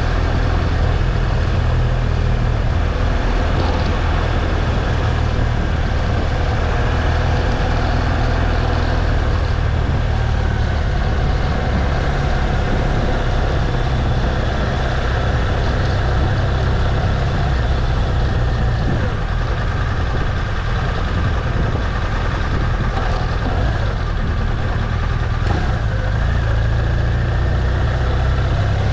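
BMW R1200 GS Adventure's boxer-twin engine running steadily while riding, with a heavy low rumble of wind on the microphone.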